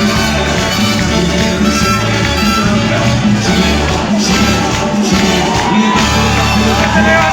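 Latin dance band music, an instrumental passage without singing, with a steady repeating bass beat.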